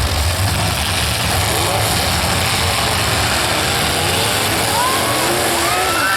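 Demolition derby cars' engines running and revving under a steady wash of noise, with rising and falling pitch glides near the end.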